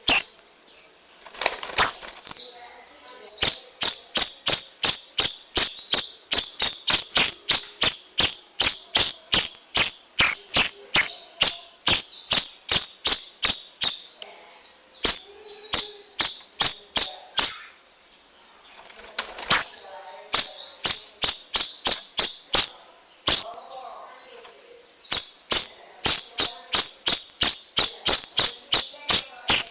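Songbird calling in a fast, steady series of sharp, high chips, about three to four a second, broken by a few brief pauses.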